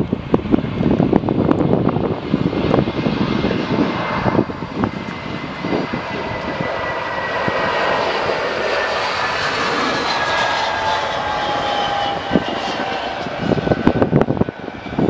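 Airbus A321 jet airliner passing on its landing, its engine whine gliding down in pitch over several seconds as it goes by, over a rough low rumble. The rumble and crackling return near the end.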